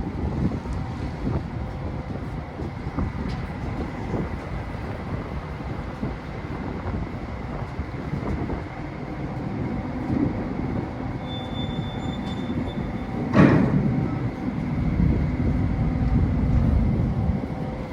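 Car ferry running, a steady low rumble with scattered knocks and one loud metallic bang about 13 seconds in, joined by a brief high whine.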